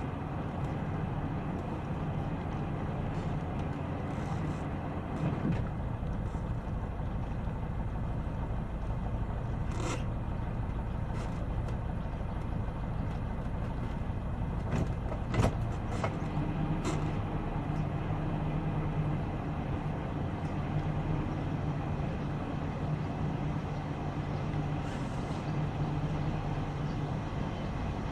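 Sailboat's engine running steadily at low speed, with a few sharp knocks on board, the loudest about fifteen seconds in.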